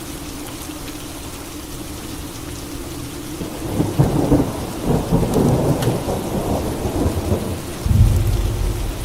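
Steady rain falling, then a thunder rumble rolling in about halfway through, with a deeper low rumble of thunder starting near the end.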